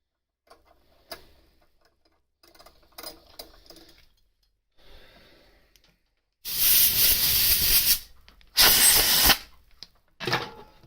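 A few light clicks and rattles of tools being handled, then three loud hissing blasts from a pressurised spray jet: the first about a second and a half long, the second shorter, and a brief one near the end.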